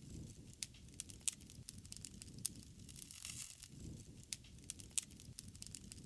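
Wood fire burning, with irregular sharp crackles and pops over a low rushing of flame that swells and fades every second or two.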